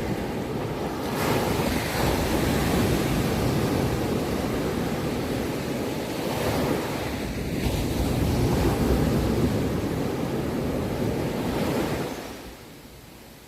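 Sea waves breaking and washing onto a shore: a loud, continuous rush that swells and eases, then dies away near the end.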